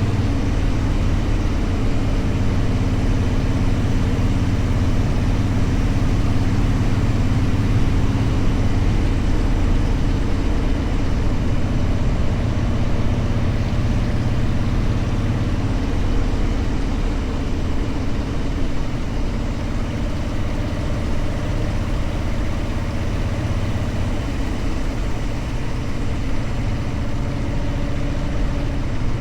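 Motorcycle engine running steadily at an even speed, with no revving or gear changes.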